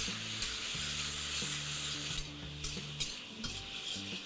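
Chopped tomatoes and curry leaves sizzling in hot ghee in a stainless steel kadai, stirred and sautéed with a metal spatula that scrapes and clicks against the pan now and then over the steady sizzle.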